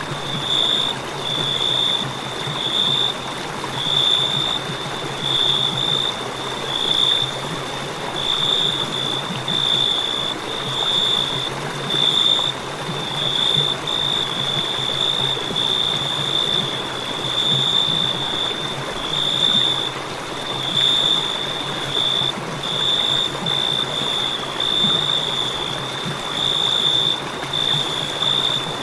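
Crickets chirping: a high trill pulsing in short bursts about once a second, over a steady hiss.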